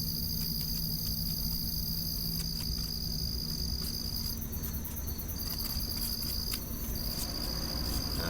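Night insects, crickets, trilling in one steady high-pitched tone that breaks off briefly a few times in the second half.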